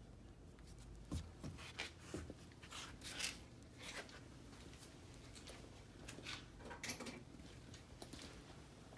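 Faint, scattered clicks and scrapes of small carburetor parts and tools being handled, irregular and a few per second at most.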